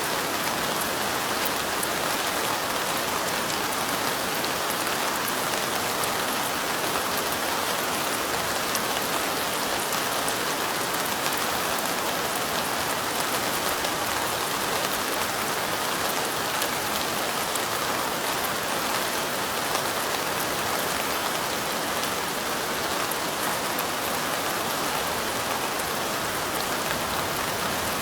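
Steady light rain, drops on window glass making a soft, even hiss, with many fine drop ticks and no change in level.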